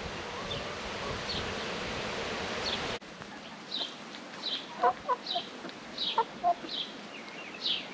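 Chickens calling and clucking: after a steady hiss in the first three seconds and an abrupt cut, a string of short, high, falling calls about every half second, mixed with lower clucks.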